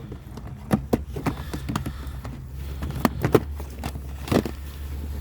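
Irregular knocks and clicks, about seven in all and loudest a little past three seconds in, over a steady low rumble.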